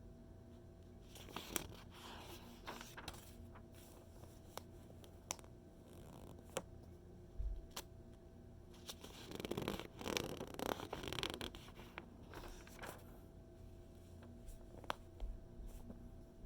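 Magazine pages being handled and turned: soft paper rustles and small crinkling ticks, with a longer rustling page turn a little past the middle.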